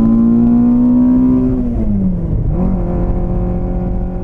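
A Toyota AE86 Trueno's 20-valve (5-valve-per-cylinder) 4A-GE inline-four engine under hard acceleration, heard from inside the cabin. The revs climb steadily, drop sharply about halfway through, then hold steady at a lower pitch.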